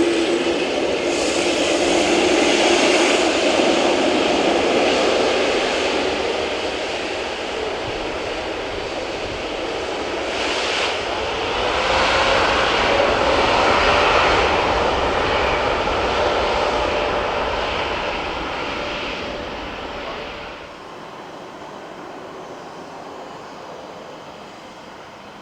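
Jet airliner engines running loud and close, swelling twice, then dropping off sharply near the end to a quieter background.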